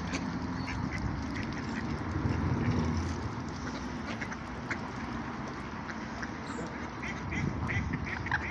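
Water birds calling over steady background noise, with a rapid run of short, sharp calls near the end.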